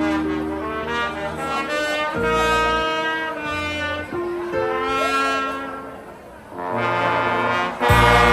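Live brass band playing slow, held chords. The sound dips briefly, then the full band comes back in louder near the end.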